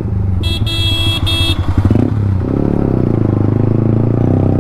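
Yamaha MT-15's single-cylinder engine with an Akrapovic exhaust running in traffic. A vehicle horn beeps three times in quick succession about half a second in.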